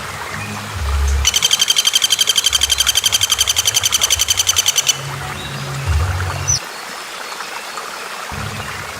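A songbird's fast trill: an even run of high notes at about ten a second, starting about a second in and lasting about four seconds, then a single short rising whistle. A low rumble comes and goes underneath.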